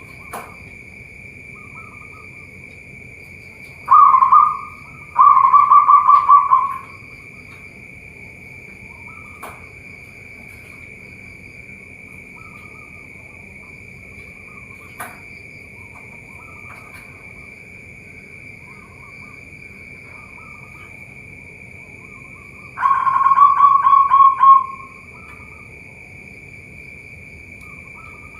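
Zebra doves (perkutut) cooing in two separate song phrases, each a quick run of pulses ending in a longer coo. One phrase comes about four seconds in and lasts nearly three seconds; the other comes about twenty-three seconds in and lasts about two seconds. Under them runs a steady high-pitched drone, with faint chirps from other birds.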